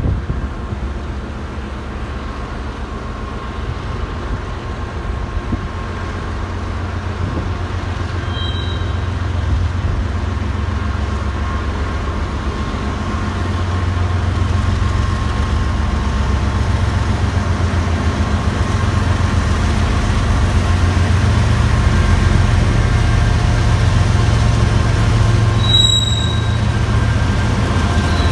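Freight train led by two BNSF diesel locomotives approaching and passing, the engine rumble steadily growing louder as they near, then running on as the hopper and tank cars roll by. Two brief high squeaks, one about eight seconds in and one near the end.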